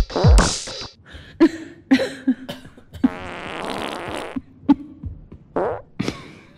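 Fart sounds: a run of short blasts, then one long rippling fart of more than a second about three seconds in, then a few more short ones.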